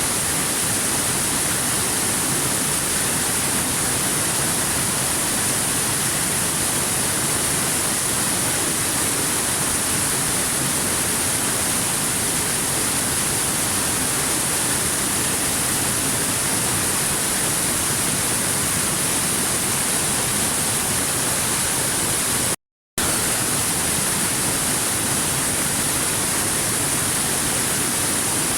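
Waterfall rushing: a steady, even hiss, brightest in the high end, with one brief dropout to silence about 23 seconds in.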